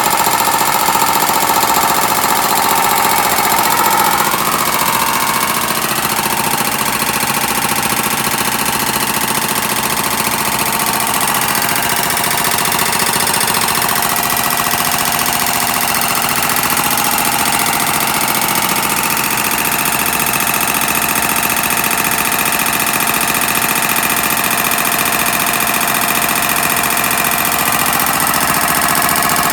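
A powered shop press pump running with a steady mechanical rattle as it presses gears apart on a transmission shaft.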